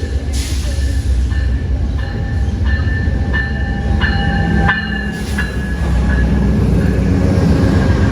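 Amtrak passenger train pulling into the station: a heavy rumble of the train with its brakes squealing in several high steady tones that come and go.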